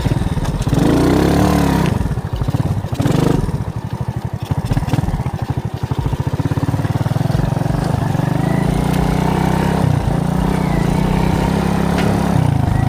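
Alpha moped's single-cylinder four-stroke engine running under way, revving up and down in the first few seconds, then pulling at a steadier speed with a brief dip in revs about ten seconds in.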